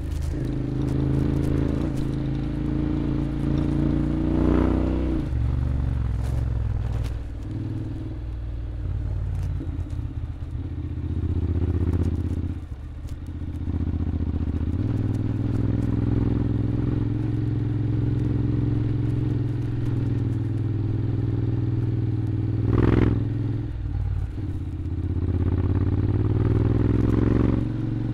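Honda X-ADV 750 parallel-twin engine running under way, its note climbing as it accelerates at the start and again near the end, with steady cruising in between. One sharp knock comes late on.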